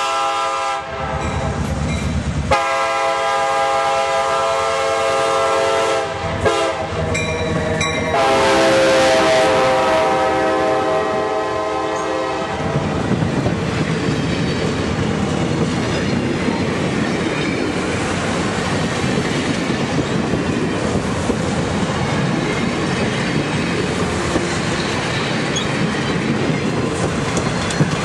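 Diesel locomotive's air horn blowing long chord blasts as the train approaches and passes, with a gap about a second in and a brief break near six seconds. From about twelve seconds in the horn stops and the passenger cars roll by close, wheels clicking over the rail joints.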